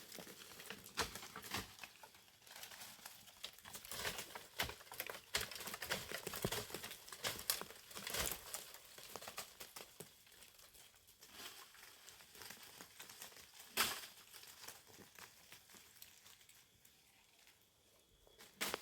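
Dry leaves and twigs rustling and crackling in irregular bursts, with one sharp snap about fourteen seconds in. The rustling thins out near the end.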